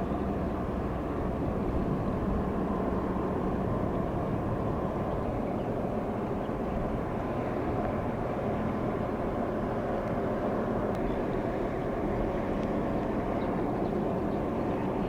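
Steady low drone of a large container ship's engine as the ship passes, with a faint steady hum held near the middle of the pitch range.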